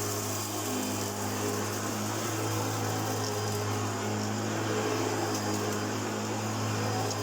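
Hoover Junior U1412 upright vacuum cleaner running steadily: a constant motor hum under an even rush of air.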